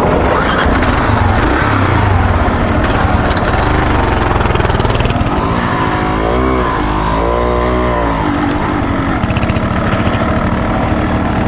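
Dual-sport motorcycle engine running under load on a steep trail climb, its revs rising and falling a few times past the middle.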